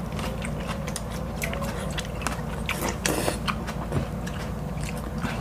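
Close-miked chewing and biting: many short, sharp wet mouth clicks and smacks scattered through, over a steady low hum, with a brief breathy rush about three seconds in.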